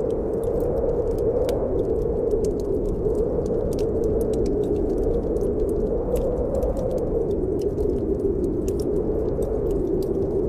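Snowstorm wind blowing steadily, its hollow whoosh swelling and easing slowly every few seconds, mixed with a wood fire in a fireplace giving off many small, irregular crackles and pops.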